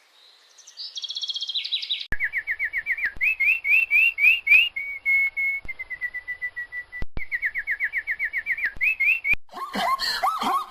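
A songbird singing fast runs of short rising whistled notes, with a long, steady, slightly falling whistle in the middle. Near the end it cuts abruptly to a dog whining.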